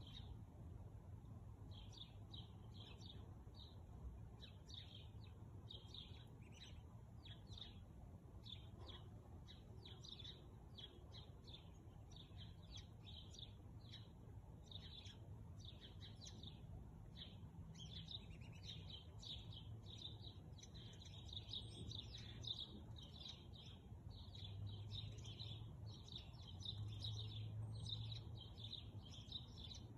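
Songbirds chirping faintly: a dense, steady run of short high chirps. A low hum underneath swells twice near the end.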